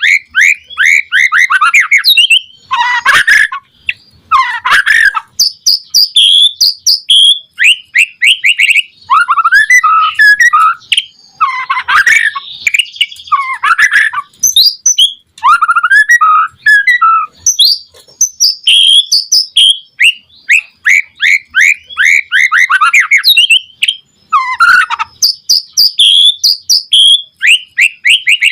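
White-rumped shama (murai batu) singing loud, varied song phrases: fast runs of quick descending notes and trills, broken by short pauses.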